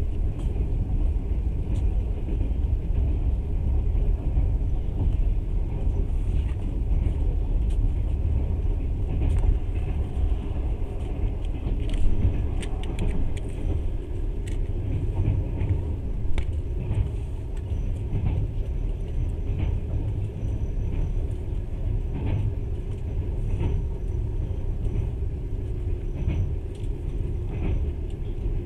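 Passenger train running along the track, heard from inside the carriage: a steady low rumble of the wheels and running gear, with scattered clicks and rattles, the sharpest about twelve and sixteen seconds in.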